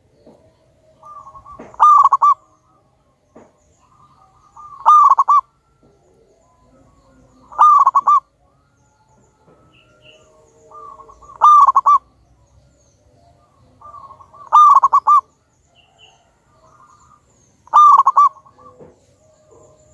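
Zebra dove (perkutut) singing its cooing song six times, about every three seconds. Each song is a short cluster of rolling notes, led in by quieter coos.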